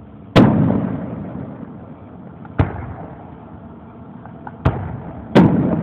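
Aerial fireworks shells bursting overhead: four sharp booms, the first about a third of a second in and the loudest. Each boom dies away slowly in a rumble.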